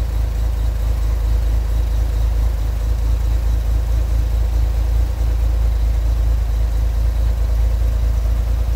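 1964 Corvair Monza Spyder's turbocharged air-cooled flat-six idling steadily while warming up after a cold start.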